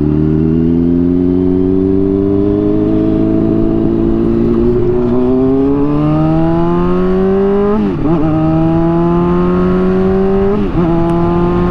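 Honda CBR600RR sport bike's inline-four engine pulling steadily on the road, heard from the rider's position, its pitch climbing slowly and dropping at gear changes about two-thirds through and near the end.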